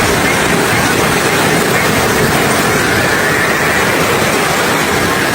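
Strong wind blowing steadily across the microphone, heard as a loud, even rushing noise with no breaks.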